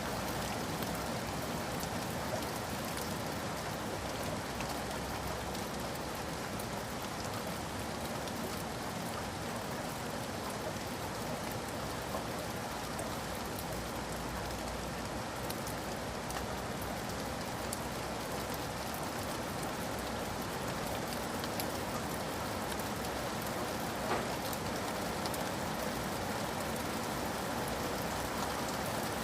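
Steady rain on a roof: an even hiss with many individual raindrops tapping through it.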